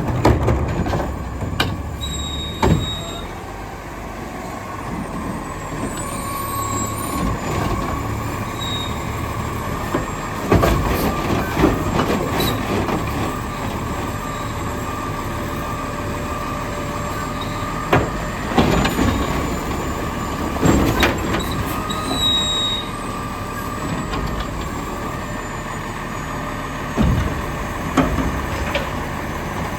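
Diesel Autocar garbage truck with a McNeilus front-loader body and Curotto Can running, with a steady whine and a series of sharp metal bangs and clanks spread through the stretch.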